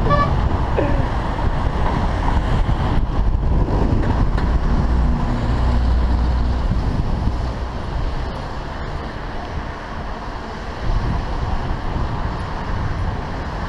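Steady rumbling road and wind noise of riding, picked up by a GoPro camera's microphone, with a low hum that swells about halfway through.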